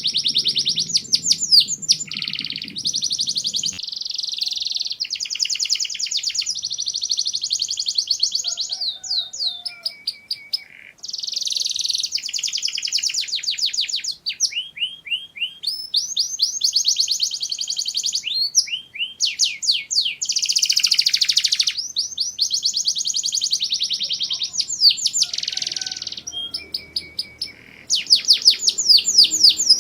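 Domestic canary singing: long rapid trills of repeated high notes, one run after another, with short breaks and quick rising and falling notes between them.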